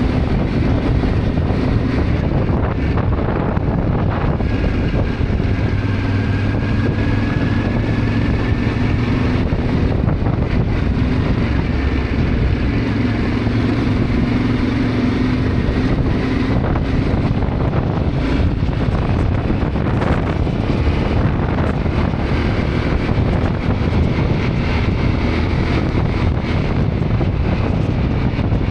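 Yamaha Ténéré 700's parallel-twin engine running steadily under way, mixed with wind rushing over the microphone.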